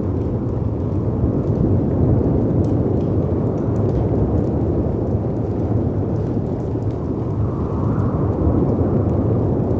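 Layered storm ambience: a steady, deep rumble of wind and surf crashing on rocks, swelling about eight seconds in, with faint pops of a crackling fireplace over it.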